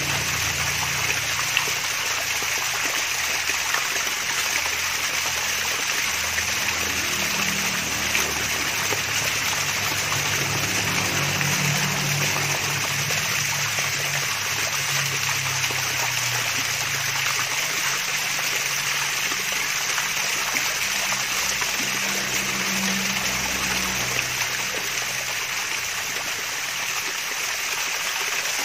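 Water of a mini waterfall splashing and trickling, a steady, even rush of running water.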